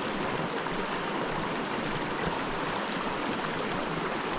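Small mountain creek flowing over rocks: a steady wash of running water.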